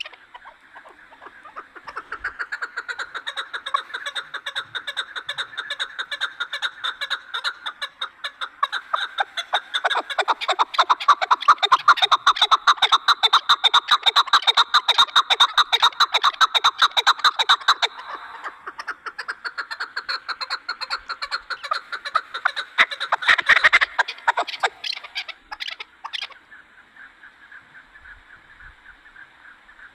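Chukar partridge calling: a long run of rapid repeated notes, loudest in the middle stretch and dropping to faint after about 26 seconds.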